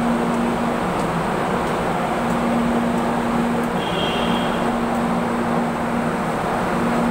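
Steady hum and rushing noise of an MRT-3 light-rail train standing at the platform, its equipment running. A short high beep sounds about four seconds in.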